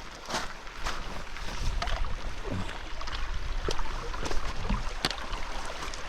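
Footsteps walking at a steady pace along a hill track, about two steps a second, with wind rumbling on the microphone.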